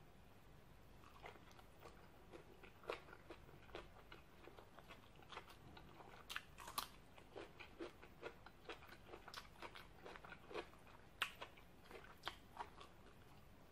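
Faint close-up eating sounds of a person chewing fish and cherry tomatoes: soft, irregular wet clicks and crunches, with a few sharper ones about a quarter of the way in, halfway through and near the end.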